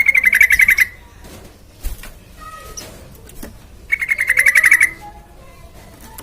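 Yellow-vented bulbul (trucukan) giving a fast, even rattling trill of about ten notes, twice, each lasting just under a second, with faint chirps between.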